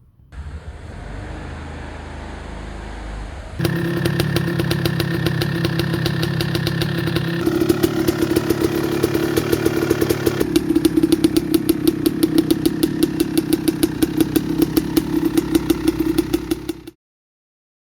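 Two-stroke engine of a 1995 Kawasaki KX250 dirt bike running with a rapid pulsing beat. It comes in several edited clips that change abruptly, gets louder a few seconds in and cuts off sharply near the end.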